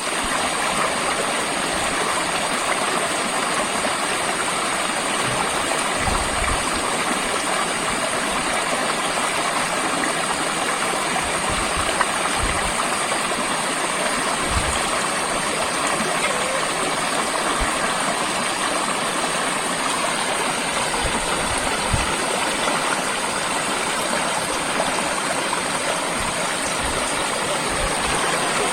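Flowing stream water, a steady rush and splash that doesn't let up.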